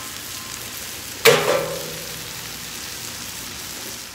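Sliced onions sizzling steadily on a hot flat-top steel griddle, with a single sharp clank that rings briefly about a second in.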